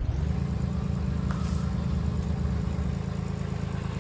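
Tractor engine running steadily, driving a square hay baler through its PTO on a test run of the baler's newly repaired drive chain.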